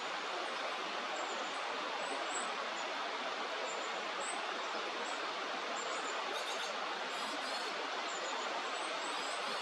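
Steady rushing of a flowing river, with faint, short, high-pitched chirps of small birds scattered through it.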